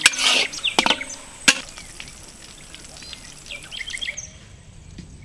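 Three sharp knocks in the first second and a half, then small birds chirping in quick, short rising calls.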